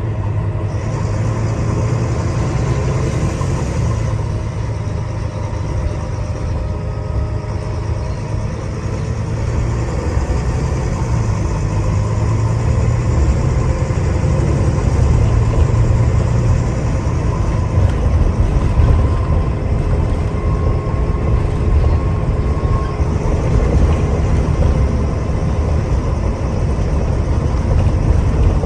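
Gemini 2 double-decker bus heard from inside while it drives: a steady low engine rumble with road noise, growing a little louder about halfway through.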